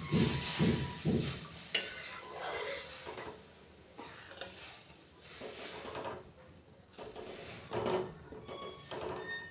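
Water sizzling on hot fried masala in a kadhai, then a spoon stirring and scraping the metal pan with scattered clicks.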